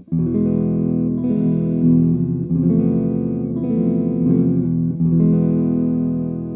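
Patrick James Eggle Oz T steel-string acoustic guitar being strummed through a slow chord sequence, a new chord about every second and a bit, the last left ringing and slowly fading.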